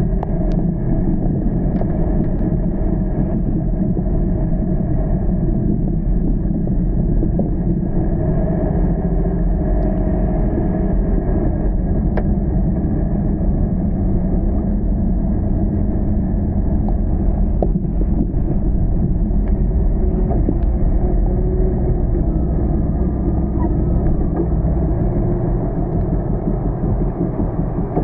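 Car driving: a steady low rumble of engine and tyre noise, with a few faint clicks scattered through it.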